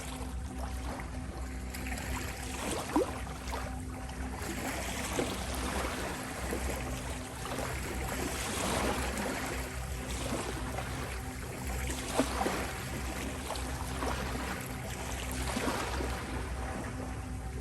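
Ocean waves washing in and out, swelling and easing every few seconds, with a couple of sharp splashes. Under them runs a steady drone of soft sine tones, the 528 Hz 'healing frequency'.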